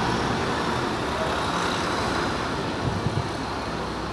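Train running at a station platform: a steady rumble with a faint high whine over it, and a couple of short low knocks about three seconds in.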